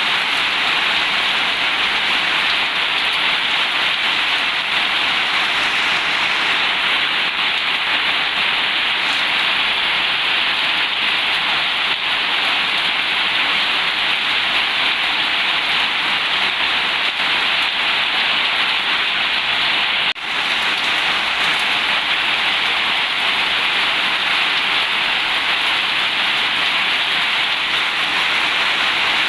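Heavy rain falling steadily on a corrugated zinc roof: a dense, even hiss of downpour. It drops out for an instant about twenty seconds in.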